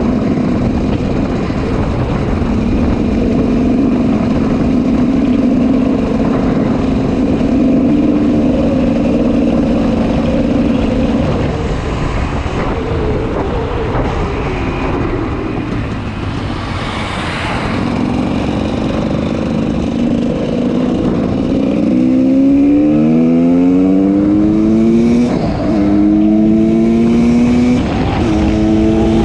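2004 GasGas EC 300 two-stroke single with an FMF Powercore 2 exhaust, running at a fairly steady pitch for the first half. From about two-thirds of the way in it accelerates hard through several gears, its pitch rising and then dropping back at each shift.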